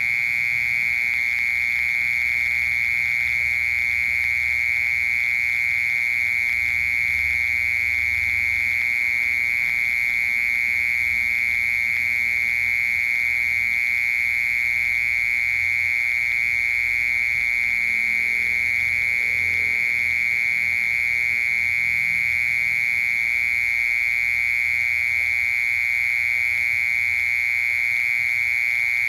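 Cricket song: one continuous, unbroken trill at a steady high pitch.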